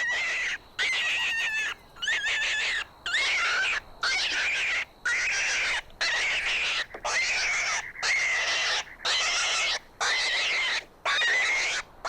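An animal's harsh, rasping call repeated about once a second, a dozen times, each call just under a second long and cut off sharply.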